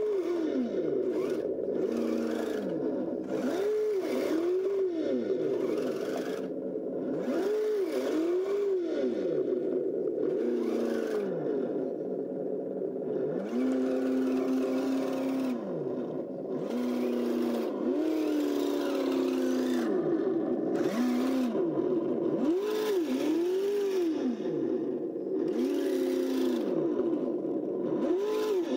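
Radio-controlled Kyosho Blizzard snow tractor driving, its electronic engine-sound system revving a simulated engine up and down over and over, the pitch sometimes held at a fixed step as the mechanical speed controller switches between speeds. A rattling, scraping drive noise comes and goes with it.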